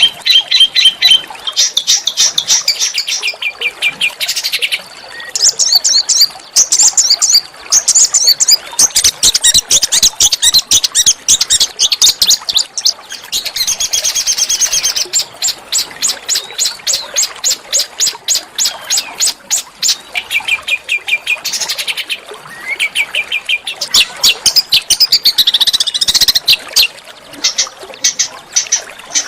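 Small songbirds chirping in long, rapid trills of short high notes, several a second, with a few brief pauses between phrases.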